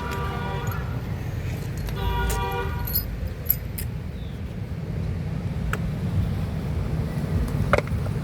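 Two short toots of a vehicle horn about two seconds apart, over a steady low traffic rumble, followed by a few sharp light clicks.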